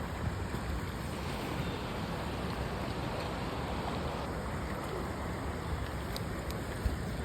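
Steady rushing of river water mixed with wind rumbling on the microphone, with a small knock near the end.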